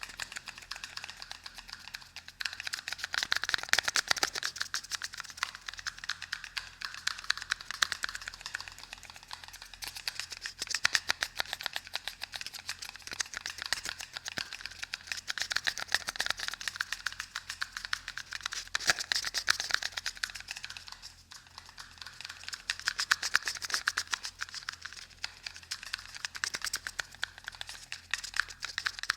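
Rapid, dense tapping and scratching clicks close to the microphone, swelling and easing off in waves every few seconds.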